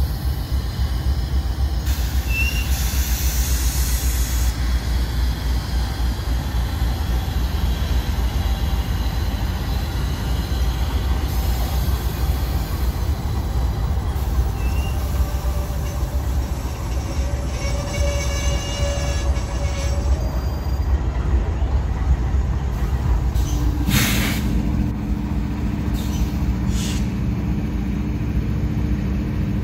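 Norfolk Southern AC44C6M diesel-electric locomotives running past at low speed with a steady low engine drone, as the train pulls in to stop. Brief high squeals of wheels on the rail come in midway, and a sharp noise about two-thirds in is followed by a second, higher engine drone as the trailing unit and its tank cars pass.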